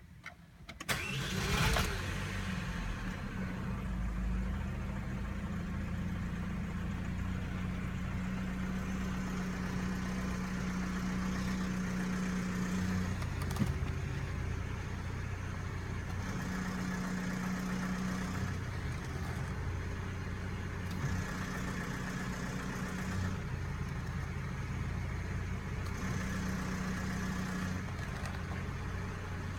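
Saab 9-3 Sport Sedan's engine starting about a second in, then running at idle with a steady hum. The hum switches several times between a higher and a lower tone. This is the strange sound that changes as the steering wheel is turned.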